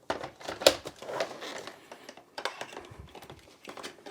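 Hard plastic cordless-vacuum parts being handled and fitted together: a run of irregular clicks and knocks with light rustling, the sharpest click a little under a second in.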